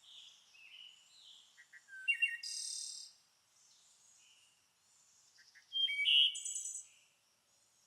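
Several songbirds calling and singing in spring woodland, short high chirps and trills overlapping, with two louder songs about two seconds in and about six seconds in.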